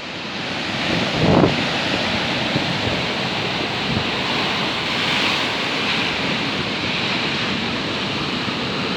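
Stormy sea surf breaking and washing in a steady rush, with strong wind buffeting the microphone; a louder low gust hits about a second and a half in.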